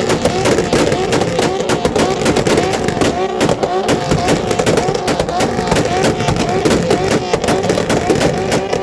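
Exhausts of a Jeep, a Nissan 350Z and a BMW revved all together, rising and falling over and over, with steady popping and crackling from the pipes.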